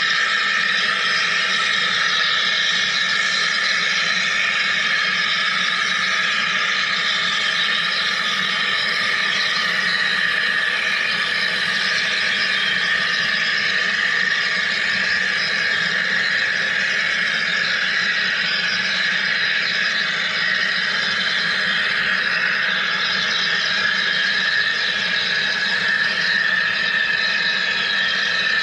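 Wire EDM (wire electrical discharge machine) running, with a steady high-pitched hiss and whine that does not change.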